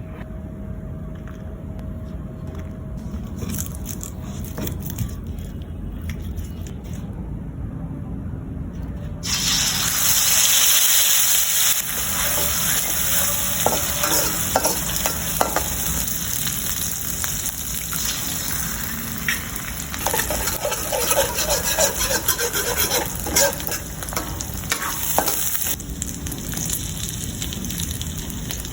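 Food sizzling in hot oil in a pan while making fried rice, stirred with scrapes and clicks of a spatula. A low steady rumble runs for about nine seconds, then the loud sizzle starts suddenly as food goes into the hot oil.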